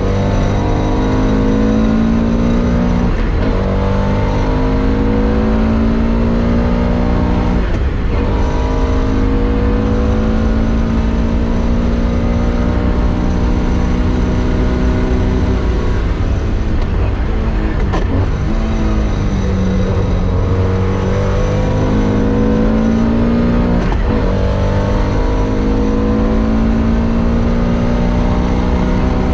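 Porsche 2-litre classic race car engine at full load, its pitch climbing through the gears and falling under braking. Short throttle blips mark the heel-and-toe downshifts.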